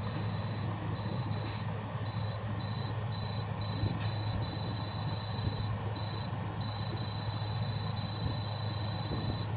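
Air conditioner running with a steady low hum while its electronic control panel beeps in a high pure tone: a run of short beeps about two a second, then long unbroken beeps. The unit is malfunctioning, its temperature setting changing by itself.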